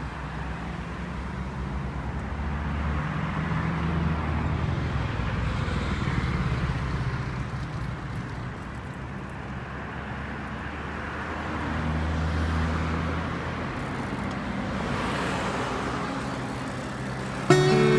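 Road traffic: motor vehicles passing, their engine hum swelling and fading twice. Background music cuts in suddenly near the end.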